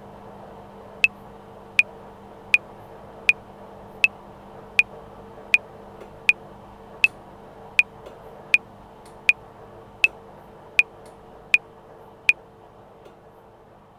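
Metronome clicking at 80 bpm, sixteen clicks (four bars of 4/4), over the steady running noise and hum of a washing machine. The clicks stop about two seconds before the end, while the washing machine carries on.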